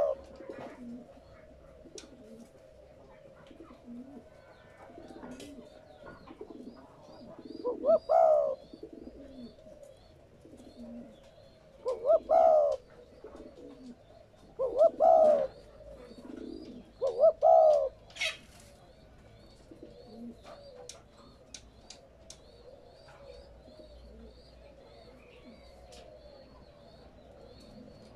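Spotted dove cooing: four separate coo phrases a few seconds apart in the first two-thirds, then a pause. A small bird chirps faintly and rapidly in the background.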